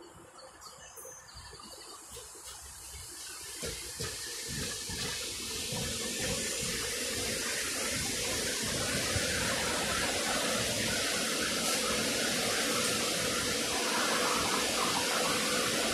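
SEPTA electric multiple-unit commuter train approaching and passing close by: the rushing noise of its wheels on the rails builds over the first few seconds and then holds steady and loud as the cars go by, with a faint steady hum underneath.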